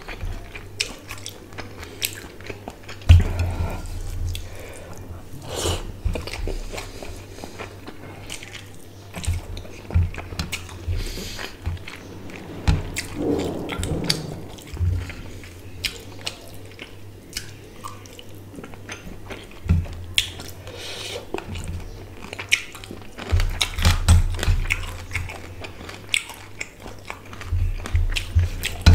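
Close-miked wet chewing, biting and lip-smacking of a person eating rice with hilsa fish curry by hand, with irregular mouth clicks and soft low thumps.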